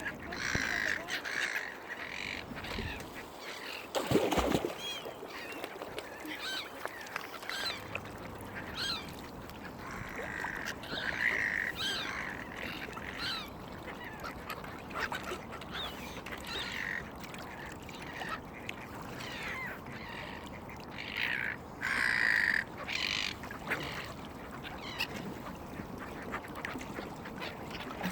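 Mallard ducks quacking repeatedly in short calls scattered throughout. A single loud thump about four seconds in.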